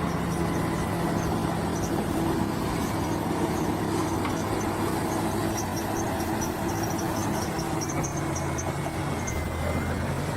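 Bulldozer's diesel engine running at a steady pitch.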